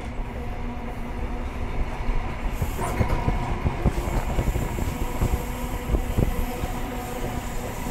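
Running noise of a Grand Central HST125 passenger coach in motion, heard from on board. A steady rumble from the wheels and rails, with a brighter hiss coming in about three seconds in, and a few sharp knocks as the wheels pass over rail joints.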